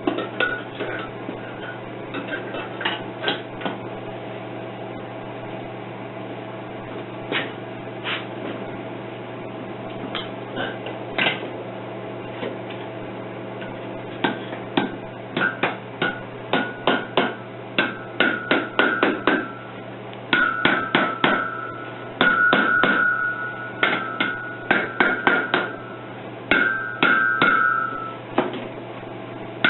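Hammer blows knocking moulding sand off a freshly poured cylinder head casting during shake-out: a few scattered strikes at first, then quick runs of strikes from about halfway, the later ones ringing with a high metallic tone.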